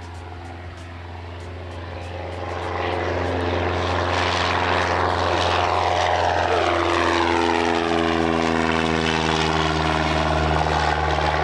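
Cessna 172 Skyhawk's piston engine and propeller heard from inside the cockpit, throttling up to full power for the takeoff roll: the engine note climbs in loudness over the first few seconds, then holds steady and loud.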